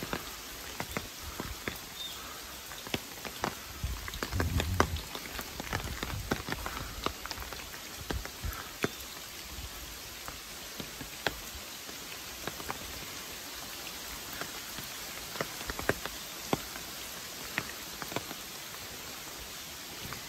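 Raindrops falling: scattered, irregular ticks over a faint steady hiss, with a brief low rumble about four to five seconds in.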